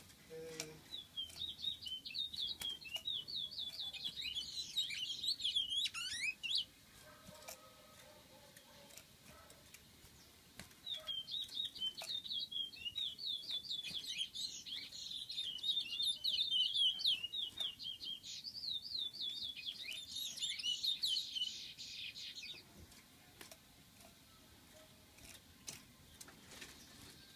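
A small songbird singing a rapid, twittering song of quick chirp notes, high-pitched, in two long bouts with a pause of a few seconds between them.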